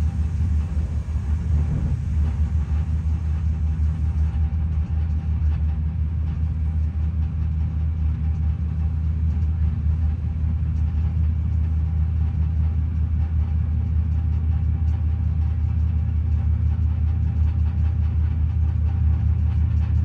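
Steady low rumble of a moving passenger train heard from inside the carriage, with a faint steady hum above it.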